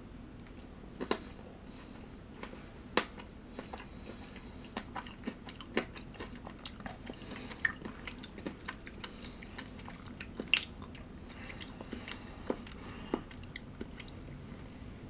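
A person chewing and biting food close to the microphone: irregular crisp crunches and mouth clicks, a few much louder than the rest, over a faint steady hum.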